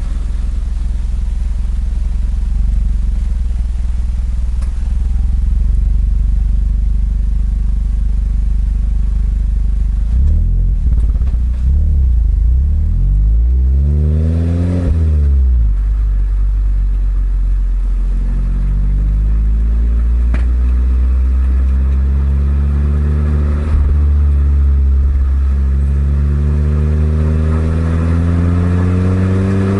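Exhaust note of a Suzuki Swift Sport ZC32S's 1.6-litre four-cylinder engine through an eight-year-old Kakimoto aftermarket muffler while driving. It is a steady low drone while cruising, then rises in pitch under acceleration and drops sharply at a gear change about halfway through. In the second half it climbs again through the gears, with another dip and rise near the end.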